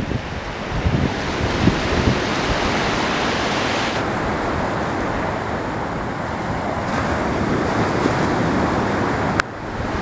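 Ocean surf washing onto a beach, a steady wash of noise, with wind on the microphone. The sound shifts abruptly about four seconds in and again just before the end, where a sharp click and brief drop in level mark a cut between recordings.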